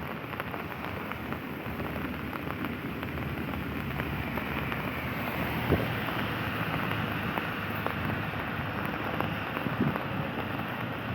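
Steady rain falling, an even hiss with a few sharp drop ticks close by.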